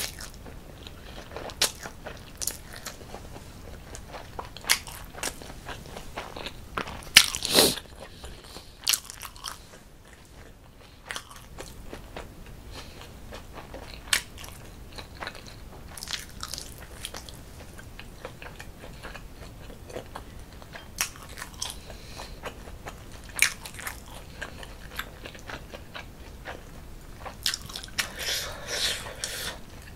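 Close-miked eating sounds: chewing with wet mouth clicks and smacks, and a few sharper bites scattered through. The loudest bite comes a little over seven seconds in, and the sounds grow busier near the end.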